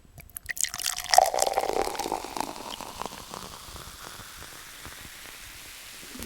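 Water sloshing and dripping, with small splashes and a gurgle that falls in pitch about a second in, then settling into a soft, steady trickle.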